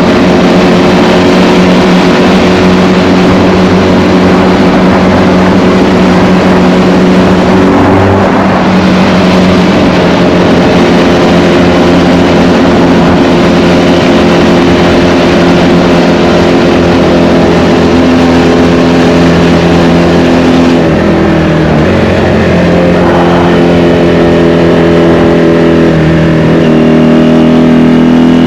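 1984 Honda VF500F Interceptor's V4 engine running under load, heard onboard, holding steady revs for long stretches. Its pitch steps down about a third of the way in and again about three-quarters of the way in, then climbs as it revs up near the end.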